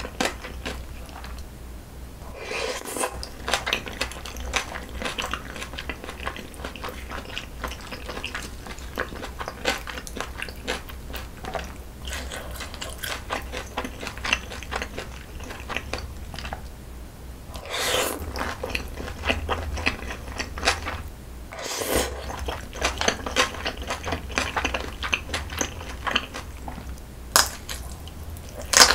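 Close-miked chewing of spicy jjajangmyeon loaded with peppers, onion, squid and shrimp: a steady run of crunchy bites and wet mouth clicks, with a few louder, longer wet bursts, over a faint low hum.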